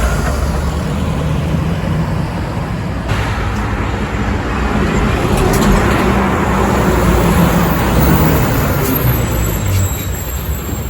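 Heavy diesel truck driving past, its engine and tyre noise building to a peak about six to eight seconds in, then easing off.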